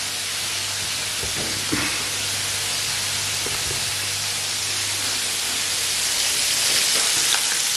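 Chicken pieces frying in a pan of hot oil on a gas stove, giving a steady sizzle. A low hum underneath stops about six seconds in.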